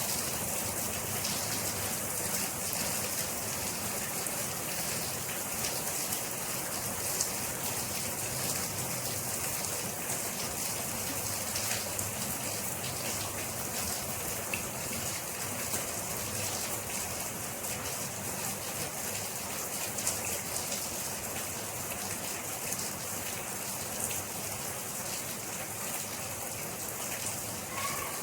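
Steady rain falling, with many fine drop ticks on a hard surface.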